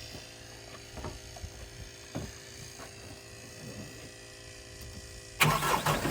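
A few faint knocks over a low hum, then about five seconds in a Kubota tractor's diesel engine cranks over and starts, running loudly and steadily from then on, freshly filled with oil.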